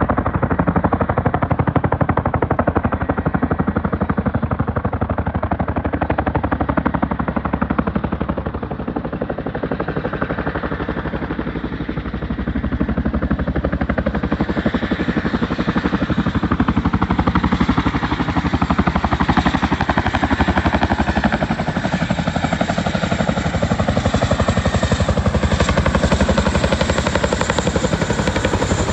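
Boeing CH-47D Chinook tandem-rotor helicopter, its rotor blades chopping in a fast, steady beat. A higher whine and hiss grow stronger through the second half.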